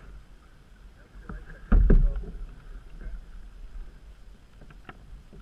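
Canoe being paddled on a creek: low rumble and water noise with scattered light knocks, and one loud thump a little under two seconds in.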